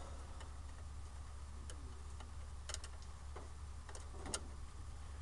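Light, irregular metallic clicks and ticks, about six of them, from tools working the ignition points inside the open distributor of a 1968 Ford F100's inline six while the point gap is being reset. A low steady hum runs underneath.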